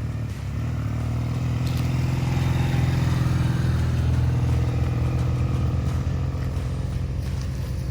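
Motorcycle engine running steadily, getting a little louder about half a second in and holding there.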